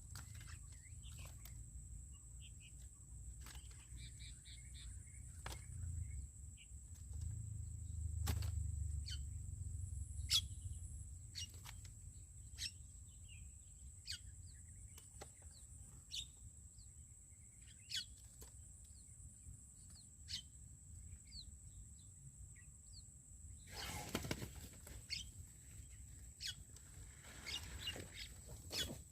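Birds calling in short, sharp chirps scattered throughout, over a steady high-pitched whine and a low rumble. Near the end there is a brief rustling burst.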